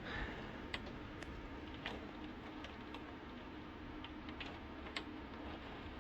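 Steady rain hiss, muffled, with irregular sharp ticks scattered through it, about one or two a second.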